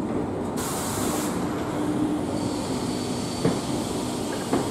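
SNCF Corail passenger coaches rolling slowly through a station with a steady rumble and a faint hum. A short burst of air hiss comes about half a second in. Near the end there are two sharp clacks from the wheels on the rails.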